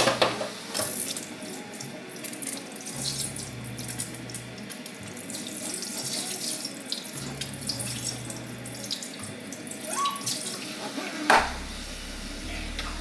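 Kitchen tap running into the sink while a new skillet is rinsed out, with scattered knocks of the pan and a louder knock near the end.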